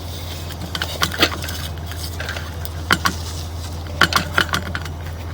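A steady low hum with three short clusters of sharp, light metallic clicks and rattles, about one, three and four seconds in.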